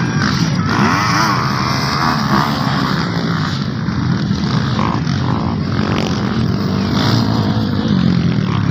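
Motocross bikes' engines revving as they race, rising and falling in pitch, with a steady wash of engine noise.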